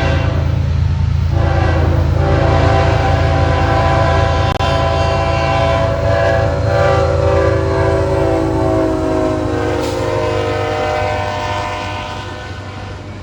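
Canadian National freight train passing: the diesel locomotives' engines rumble while the air horn sounds from about a second in. Around nine seconds in the horn chord drops in pitch as the locomotive passes, and the sound fades near the end.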